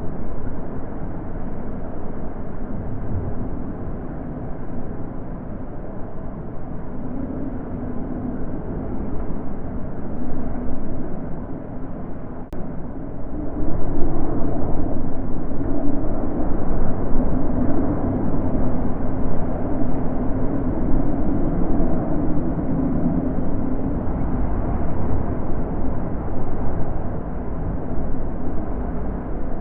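Wind blowing steadily, a low rushing with a faint hollow howl, which gusts louder about halfway through and stays stronger.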